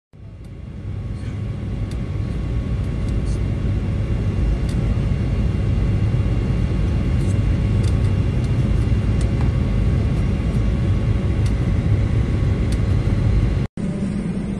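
Steady low roar of an airliner in flight heard inside the passenger cabin, fading in at the start and cutting off suddenly near the end, with a few faint clicks.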